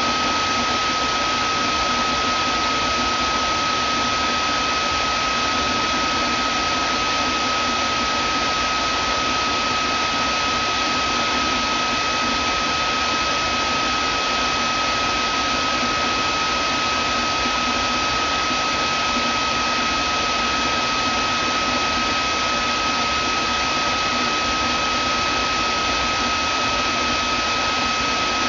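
Vacuum cleaner motor running steadily: an even rushing airflow noise with a constant high whine over it, unchanging throughout.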